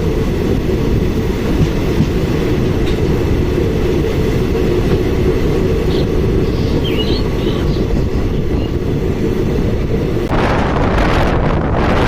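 Passenger train running, a steady rumble of wheels on the rails heard from on board. About ten seconds in, a rush of wind hits the microphone.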